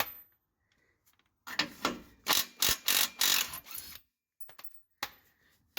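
Hand ratchet wrench clicking in quick runs, undoing the bolts of a car's stock exhaust. It starts about a second and a half in, stops near four seconds, and one more click comes about a second later.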